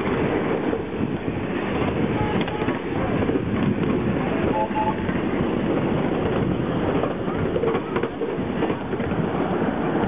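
A train running along the track: a steady rumble of wheels on rail that holds at an even level.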